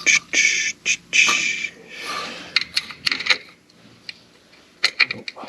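Hand work on metal engine parts: two short scraping strokes, then scattered clicks and taps of tools and bolts, with a cluster of taps near the end.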